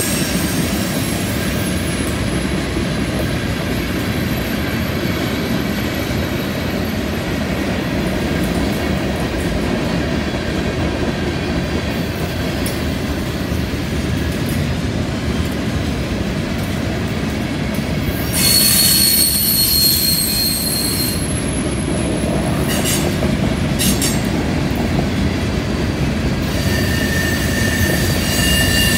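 Freight train cars rolling past on a curve: a steady rumble of steel wheels on rail, with high-pitched wheel squeal from the curve that comes and goes, strongest about two-thirds through and again near the end.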